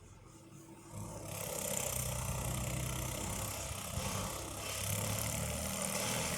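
Tractor engine running steadily, coming in about a second in, with a broad hiss over its low drone.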